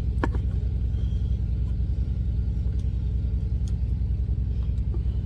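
Semi truck's diesel engine idling steadily, a low rhythmic rumble heard inside the cab, with a light click or two near the start.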